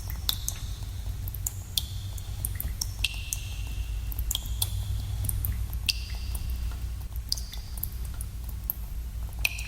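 Water drops falling irregularly in a cave, each a sharp plink with a short echoing ring, about one or two a second, over a steady low rumble.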